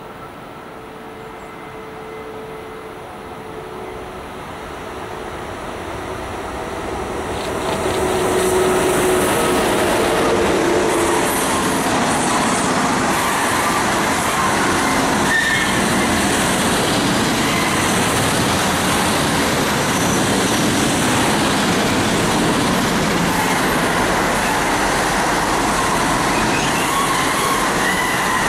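Rolling-highway freight train, lorries riding on low-floor wagons, passing close by at speed. The noise grows as the train approaches over the first eight seconds, then becomes a steady loud rumble and clatter of the wagons' wheels on the rails as the long train rolls past.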